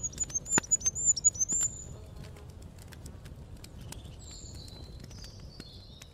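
A small bird calling: a quick run of about seven high chirps in the first two seconds, then a fainter twitter near the end.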